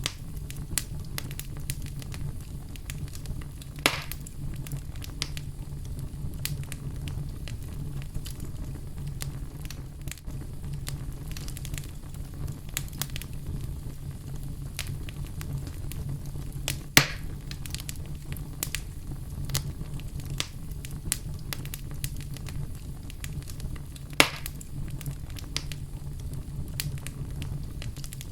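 Wood fire in a fireplace crackling, with a steady low rumble under many small irregular pops. Three louder pops stand out: about four seconds in, in the middle, and near the end.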